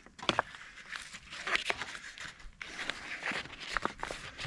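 Irregular clicks, taps and scrapes of cookware being handled while ground-beef patties are pressed and worked loose.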